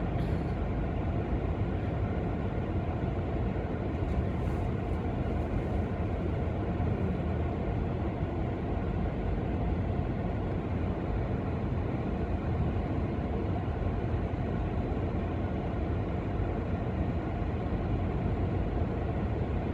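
Gale-force wind buffeting the microphone in a steady low rumble, with the noise of big lake waves surging onto the shore.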